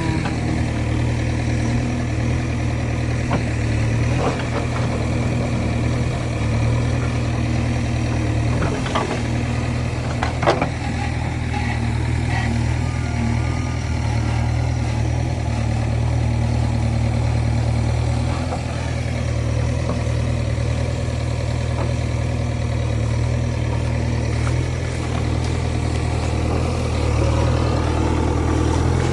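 Heavy vehicle's diesel engine running steadily at a low, even pitch, with a few short knocks over it.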